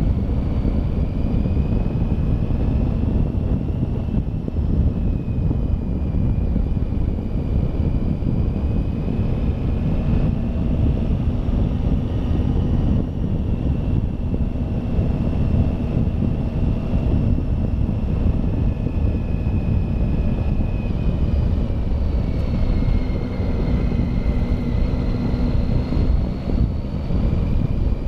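Motorcycle riding uphill, its engine running under a heavy rumble of wind on the microphone. The engine's pitch drifts gently up and down with the throttle.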